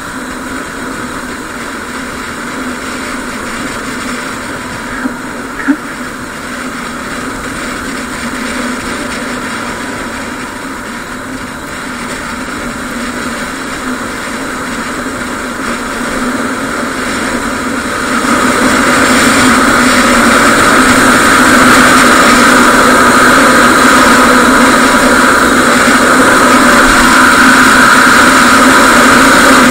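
Yamaha WR250R single-cylinder motorcycle engine running under way. It gets louder about eighteen seconds in, with a brief knock about six seconds in.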